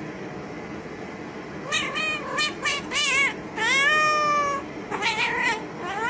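A cat meowing over and over: a quick run of short meows, one long drawn-out meow near the middle, then more short meows toward the end.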